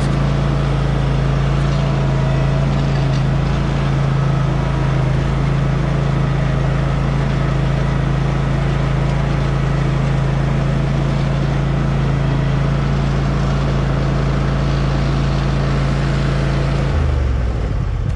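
Cub Cadet Ultima ZT1 zero-turn mower's engine running steadily as the mower is driven on a test run to check its steering adjustment. Near the end the engine note drops.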